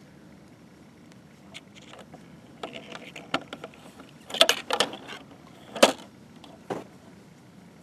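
Scattered clicks and light clatter of a die-cast model refuse truck being handled, its small plastic and metal parts knocking. A quick cluster of clicks comes past the middle, then one sharp loud click shortly after.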